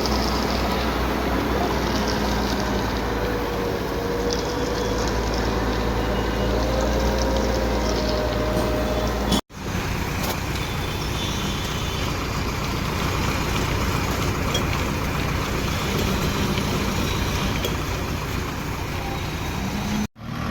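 A heavy machine's engine running steadily, with a faint wavering whine above it. The sound drops out for an instant about nine seconds in and again just before the end, then resumes.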